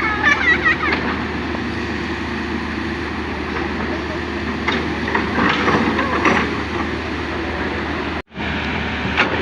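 Excavator diesel engine running steadily with a constant low hum. Brief voices talk in the background near the start and again around the middle, and the sound cuts out for a moment near the end.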